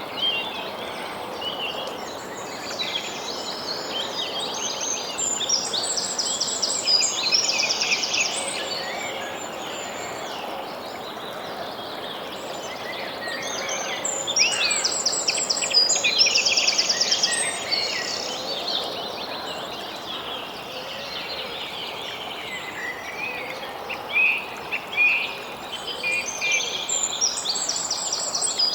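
Songbirds singing in phrases of quick notes and trills, the song swelling three times, over a steady background hiss.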